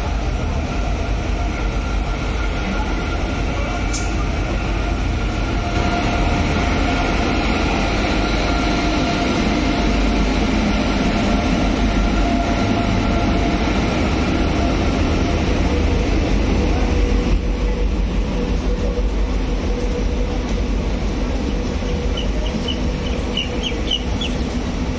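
Indian Railways express train of ICF coaches behind a WAP-5 electric locomotive rolling past: a steady rumble of wheels on rail. There is a single sharp click about four seconds in and a few short high squeaks near the end.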